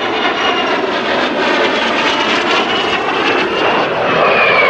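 Aero L-39 Albatros jets, single-turbofan trainers, flying past in an aerobatic display: a loud, steady jet roar. Near the end a high whine falls in pitch as the aircraft pass.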